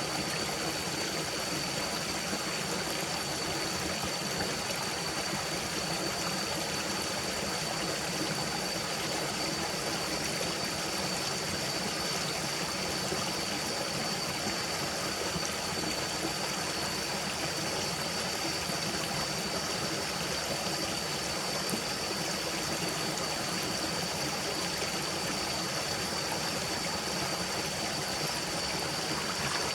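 A forest stream flowing, a steady even rush of water with no break, with a thin, steady high-pitched tone running above it.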